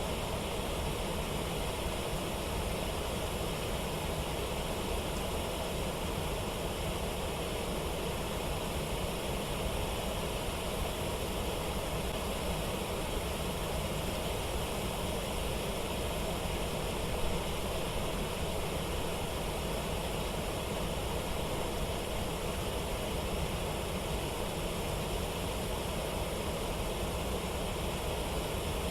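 Rushing water of a waterfall and rapids: a steady, even noise with no breaks.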